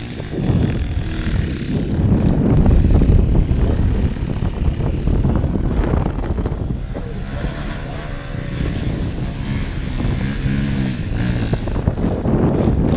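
Enduro dirt bike engine revving up and down as it is ridden on a trail, its pitch rising and falling, with a rough, noisy rattle throughout.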